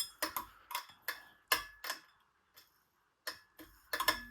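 A series of sharp, irregularly spaced clicks and taps, about ten in four seconds, with quiet between them.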